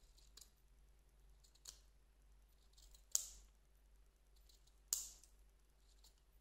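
Scissors snipping off uneven yarn threads: a few short, sharp snips, the two loudest about three and five seconds in.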